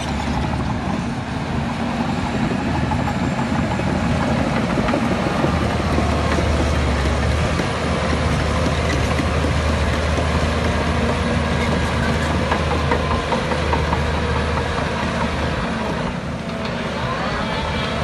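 Heavy diesel earthmoving machinery running steadily under a low engine drone with constant clatter, easing slightly near the end.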